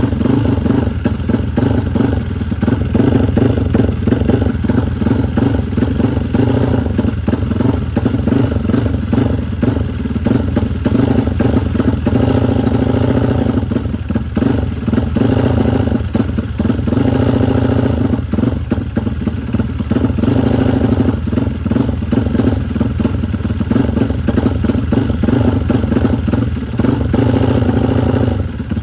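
Race-built Yamaha Vixion single-cylinder four-stroke motorcycle engine running loudly, its level swelling and easing as the throttle is worked.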